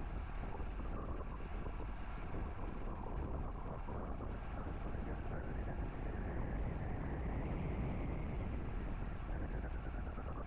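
Steady wind rush buffeting the microphone on a moving bicycle, with road noise underneath.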